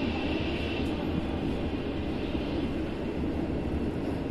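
Passenger train pulling out of a station, heard from on board: a steady low rumble of the coach running on the track.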